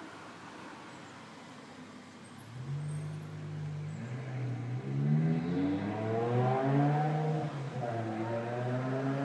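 BMW M5 E60's V10 engine and exhaust, faint at first, then loud from about two and a half seconds in, its pitch rising and dropping back several times as it revs and accelerates.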